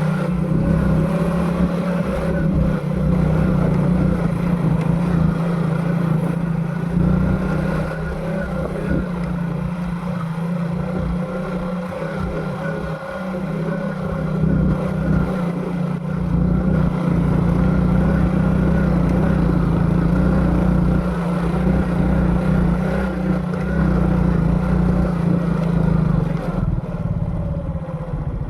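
Motorcycle engine running at a steady speed while riding, with wind noise, easing off near the end.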